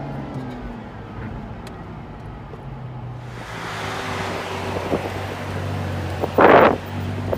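LaFerrari Aperta's V12 running low and steady at slow driving speed. A rush of wind noise builds from about three seconds in, and a brief loud burst of noise comes near the end.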